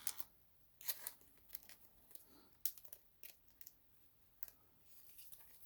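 Trading cards and their packaging being handled: scattered soft rustles and light clicks.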